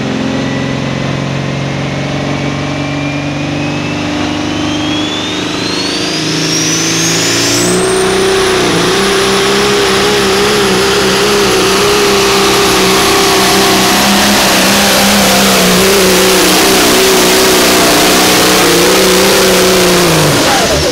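A pulling truck's engine runs hard under load down the track, its note wavering. A high turbocharger whistle climbs steadily over the first eight seconds and then holds. Near the end the engine note drops away as the throttle comes off.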